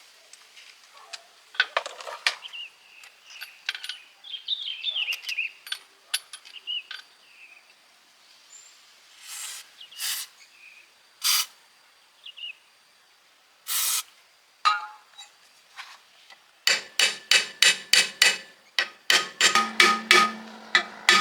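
Workshop sounds of work on a steel truck chassis: scattered scraping and rubbing with a few short noise bursts, then, about three-quarters of the way in, a run of quick hammer blows on metal, about two or three a second, ringing.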